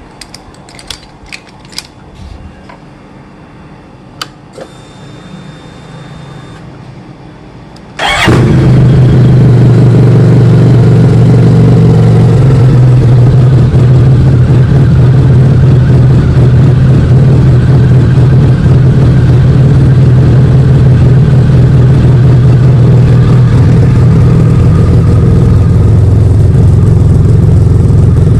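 A few light clicks, then about a quarter of the way in a motorcycle engine starts abruptly and settles straight into a loud, steady idle that holds to the end without revving.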